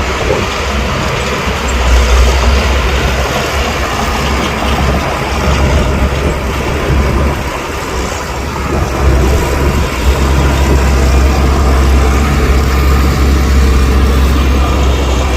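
Heavy diesel earthmoving machinery working: a steady low engine rumble with a dense, noisy clatter over it.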